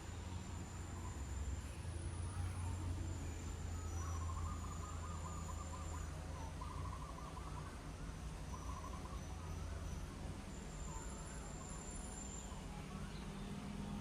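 Outdoor ambience of insects buzzing at a high, steady pitch, with a bird calling in short trilled phrases a few seconds in, over a low steady hum.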